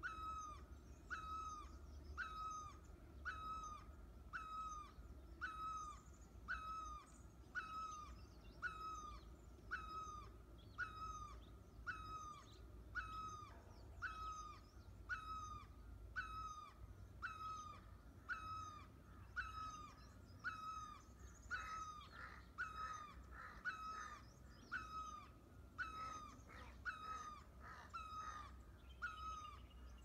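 A bird, which the title names as a European green woodpecker, repeating a single short call that slurs downward, very regularly, about once a second. In the last third, harsher notes come in between the calls.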